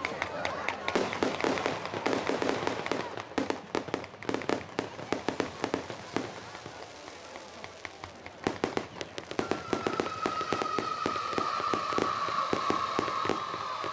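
Starmine fireworks barrage: rapid pops and bangs of shells firing and bursting. The barrage thins a little past the middle, then thickens again, and a long steady whistle joins about two-thirds of the way in.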